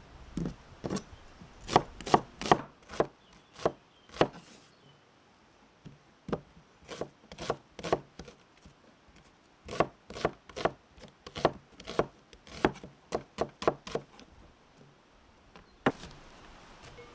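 A knife chopping food on a cutting board: a run of sharp chops, roughly two a second, in three bursts with short pauses between them.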